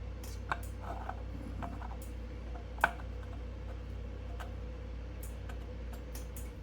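Steady motor hum with light, irregular ticks and one sharp click about three seconds in, stopping at the end: the front wheel turning with its new brake disc rotor lightly rubbing against the hub edge.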